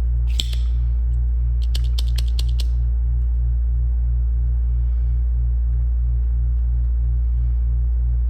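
Steady low hum of an air-conditioning unit, with the sharp snap of a spring-loaded manual solder sucker firing about half a second in. A quick run of five or six small clicks follows around two seconds in.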